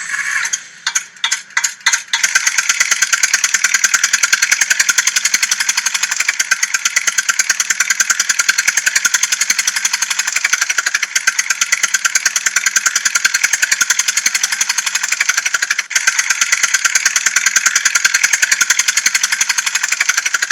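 Tractor engine sound starting with a few separate coughs, then chugging steadily at a fast, even beat.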